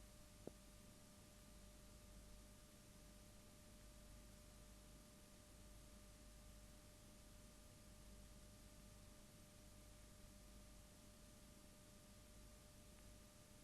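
Near silence: faint steady hiss and hum with a thin steady tone, and a single faint click about half a second in.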